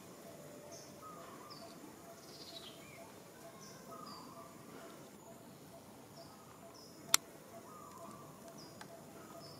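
Birds calling outdoors: short high chirps repeat every second or so over lower warbling calls, with one call sliding down in pitch about two seconds in. A single sharp click a little after seven seconds is the loudest sound.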